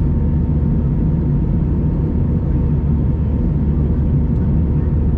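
Steady in-cabin noise of an Airbus A319 airliner in flight: a constant low rumble of airflow and its CFM56 turbofan engines, with faint steady tones above it.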